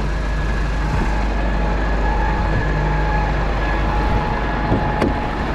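Tow truck engine running steadily, a low drone with a faint steady whine over it.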